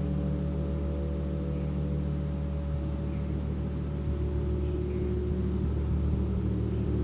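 A gong sounding a sustained, low, layered drone of many overlapping tones, swelling slightly about four seconds in as it is played on.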